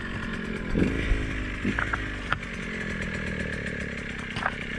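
Two-stroke dirt bike engine running at a steady low idle, with scattered short knocks and clatter.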